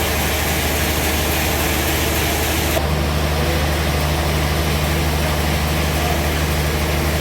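A sawmill's engine running steadily with a constant low hum. About three seconds in, a second steady tone joins the hum and the high hiss drops away.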